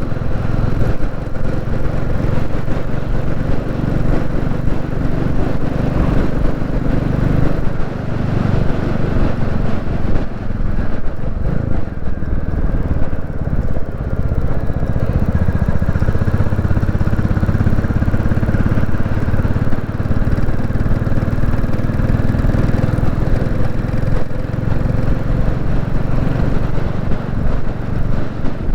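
Royal Enfield Classic 350's single-cylinder engine running steadily while the motorcycle is ridden along the road.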